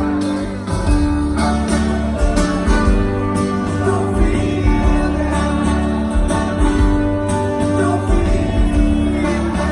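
Live band music with acoustic guitar and singing.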